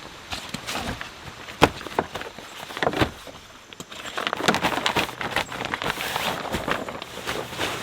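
Irregular rustling and knocking of gear being handled, with scattered sharp clicks, busier in the second half.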